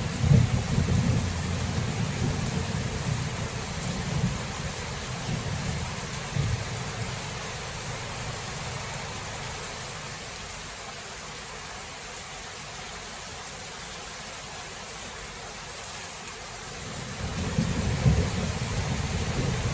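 Thunderstorm: steady rain hiss under rolling low thunder, which is strong at the start, dies down to a lull midway, and rumbles up again near the end.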